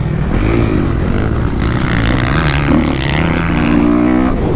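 Kawasaki KX250F four-stroke dirt bike engine running on the motocross track, its pitch rising and falling with throttle and gear changes, with wind noise on the microphone.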